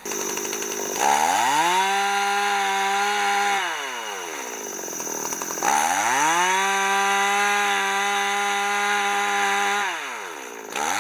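Two-stroke chainsaw revved from idle up to full throttle and held there for a few seconds, then let back down to idle, twice, with a third rev starting near the end.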